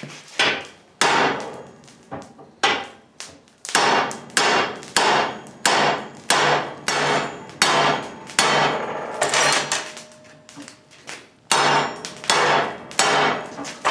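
Hand hammer striking a heated 3/4 inch steel sucker rod over a hot-cut hardy, cutting the rod through. The blows are steady at about two a second, with a pause of about a second before they resume near the end.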